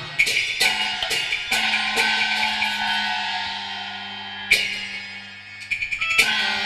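Cantonese opera accompaniment playing an instrumental passage without singing. A run of sharp percussion strikes that ring on sounds over held instrumental tones; the strikes thin out in the middle and pick up again near the end.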